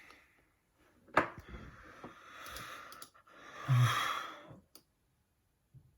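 A sharp click about a second in, then a soft rustle and a breathy, voiced sigh near the four-second mark.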